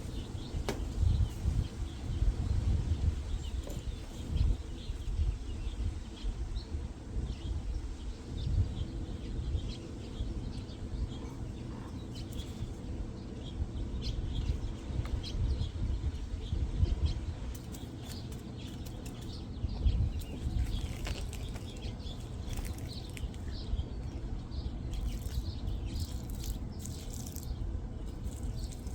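Small birds chirping here and there over a low, uneven rumble, with a run of sharp clicks near the end.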